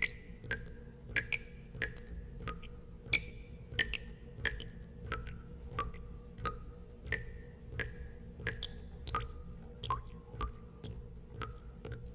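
Water drops falling one by one into water, about two a second at an uneven pace, each a sharp plink with a short ringing pitch that drops slightly, over a steady low hum.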